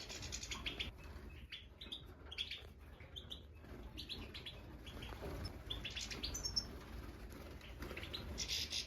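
Young European goldfinches of the Major type chirping in an aviary: many short, high calls scattered irregularly over a low steady hum.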